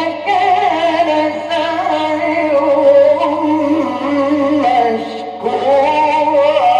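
A man's voice chanting Qur'anic recitation in the melodic mujawwad style, drawing out long ornamented notes whose pitch wavers and glides. The phrase breaks briefly a little past five seconds and resumes on a higher note.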